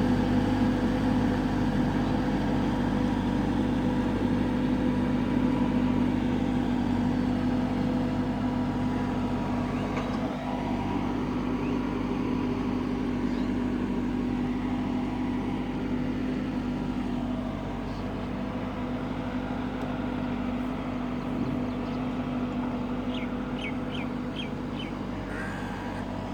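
Massey Ferguson 375 tractor's diesel engine running steadily with an even drone, slowly getting fainter. A short run of quick ticks comes near the end.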